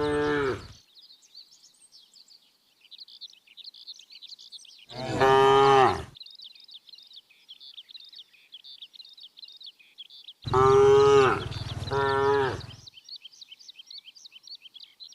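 Cattle mooing: a call ending just as it starts, another about five seconds in, and two back to back near the end, each sliding down in pitch at its close. A fainter high chirping goes on steadily underneath.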